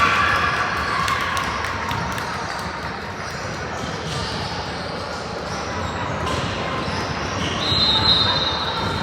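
Game sounds in a large echoing hall: scattered knocks and squeaks with spectators talking. Near the end a referee's whistle blows one steady blast of about a second and a half.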